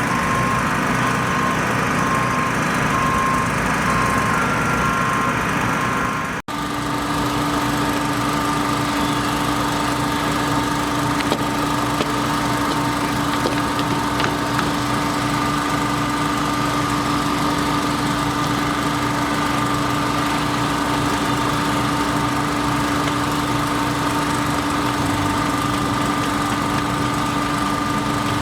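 A construction machine's engine running steadily. It briefly drops out about six seconds in, then a steady hum at a new pitch carries on.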